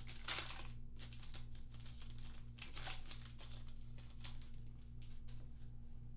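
A trading card pack wrapper crinkling and tearing as it is ripped open. The loudest crackles come at the start and again near the middle, followed by lighter rustles and clicks.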